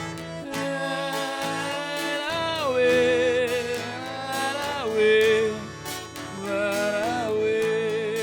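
Live caipira country music: a held melody line that wavers and slides between notes, over plucked strings and a steady bass accompaniment.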